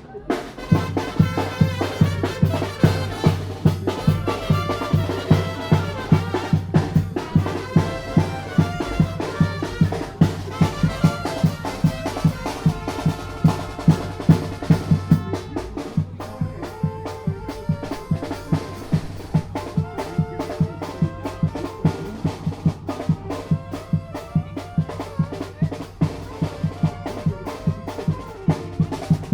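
A tamborazo band playing a song: brass horns over a steady beat of tambora bass drum and snare drum. The music starts about half a second in.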